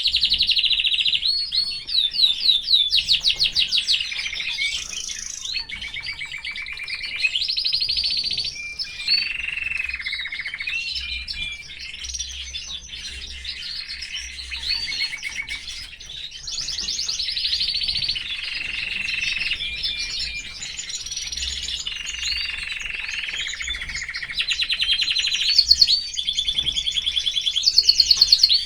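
Domestic canary singing a long, unbroken song of rapid trills. Each trill is held for a second or two before it switches to the next phrase.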